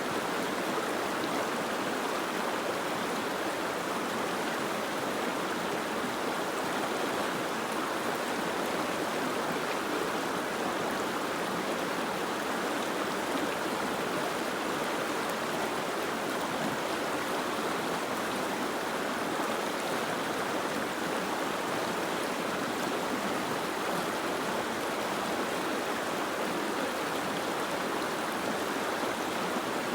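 Soft rain falling steadily: an even, unbroken hiss of water with no single drops standing out.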